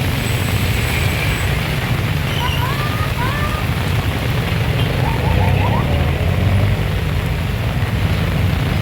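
Heavy rain with strong wind buffeting the microphone: a steady loud hiss over a deep, rumbling roar. A few faint short chirps sound about three seconds in.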